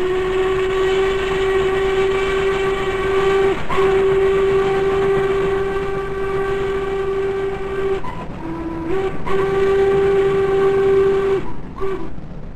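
Steam locomotive whistle blowing a series of long blasts, with a short break about three and a half seconds in and another about eight seconds in, a brief lower note that steps up in pitch, then a last long blast and a short toot near the end.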